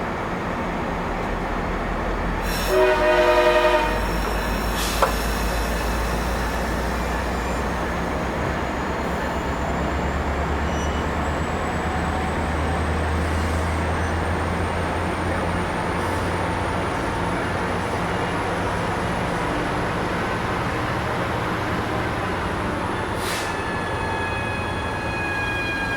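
Train running past with a steady low diesel rumble, and a short train horn blast about three seconds in. A sharp click follows a couple of seconds later, and a new set of steady pitched tones begins near the end.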